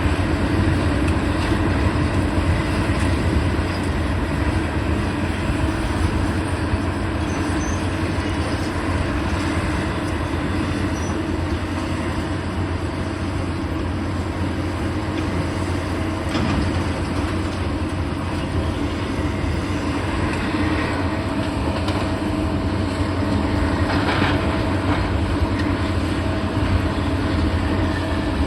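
Heavy demolition machinery running steadily: a loud diesel engine drone with a few brief knocks of material.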